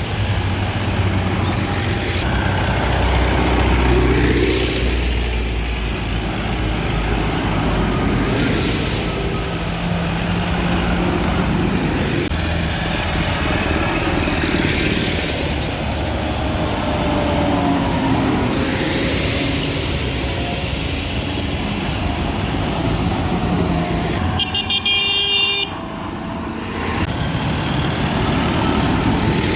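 Farm tractor engines running loudly as a line of tractors drives past, pitch rising and falling as they pass. Near the end a vehicle horn gives a short high toot.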